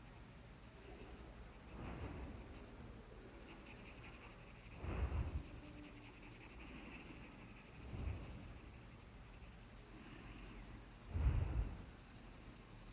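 Graphite pencil scratching on paper in repeated shading strokes, pressed harder to darken the shading. Louder rubbing bursts come every few seconds, the strongest about five and eleven seconds in.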